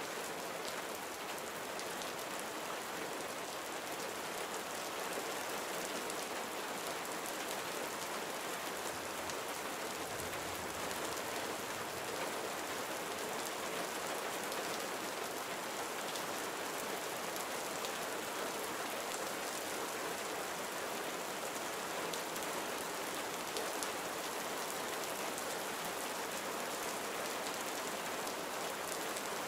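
Gentle summer rain falling steadily: an even hiss with faint ticks of individual drops.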